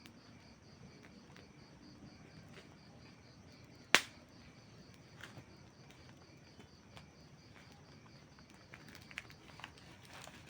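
Wood campfire crackling: a soft steady hiss with scattered pops, one sharp loud pop about four seconds in, and a cluster of smaller crackles near the end.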